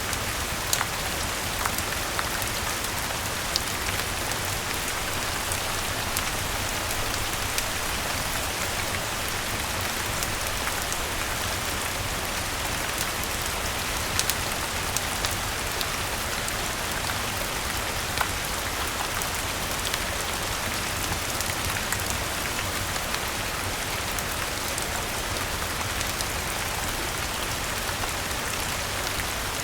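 Steady rain falling, an even hiss over a low rumble, with scattered sharp ticks and pops.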